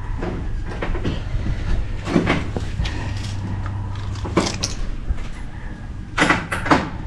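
Scattered knocks and clanks on an old car's body, the loudest near the end, over a steady low hum.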